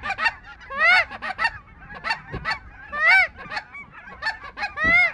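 Goose calling: a steady run of short clucks and honks, with a louder drawn-out honk that rises and falls in pitch about every two seconds.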